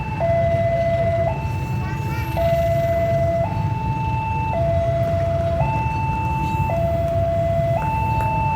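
Level-crossing warning alarm sounding a two-tone signal, switching between a lower and a higher tone about once a second, over a steady low rumble of engines.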